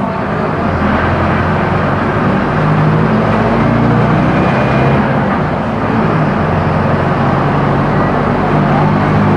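Mercedes-Benz OF-1418 bus's diesel engine running under way, its note shifting up and down several times as engine speed changes.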